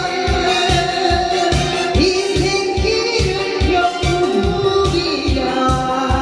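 A voice singing a melody over a recorded backing track with a steady, driving beat.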